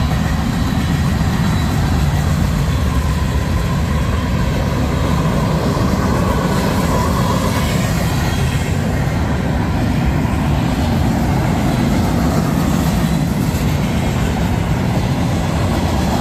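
Manifest freight train cars rolling past at speed: a loud, steady rumble and rattle of steel wheels on the rails.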